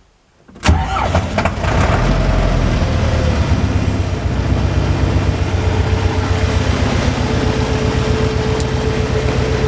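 LTZ T-40AM tractor's diesel engine running cold at idle. It comes in abruptly about a second in and then holds a steady, even rumble.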